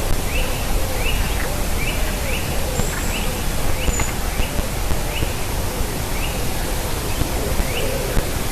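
Steady hiss with a small bird's short chirp repeated roughly once a second throughout.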